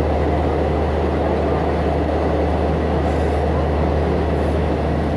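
Passenger train running through a railway tunnel, heard from inside the carriage: a steady rumble with a deep low hum underneath.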